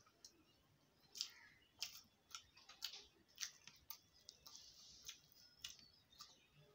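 Faint, wet mouth clicks and smacks of chewing, about two a second.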